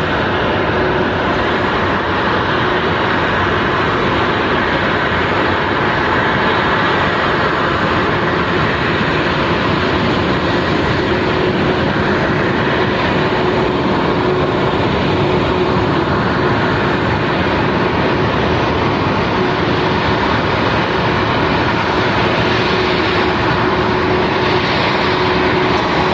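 Boeing 787-8's Rolls-Royce Trent 1000 jet engines running after start-up: a steady, even rush of engine noise with a faint hum underneath.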